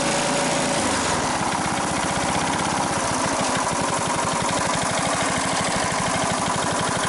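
1972 Briggs & Stratton 3.5 hp single-cylinder lawn mower engine running steadily with rapid, even firing, soon after a cold start and not yet warmed up.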